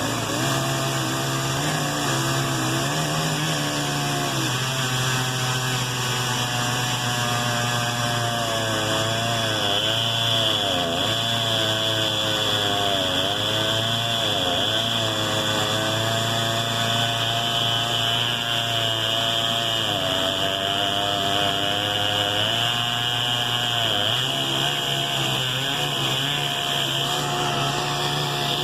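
Echo CS-670 two-stroke chainsaw running at high speed through a long cut in an oak trunk. Its pitch sags and recovers several times as the chain loads in the wood.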